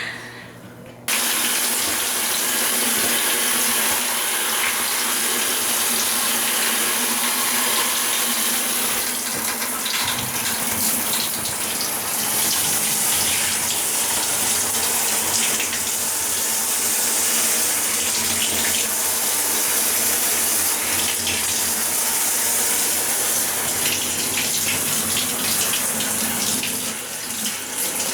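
Water running steadily in a bathroom, switched on suddenly about a second in, with a brief dip in flow near the end.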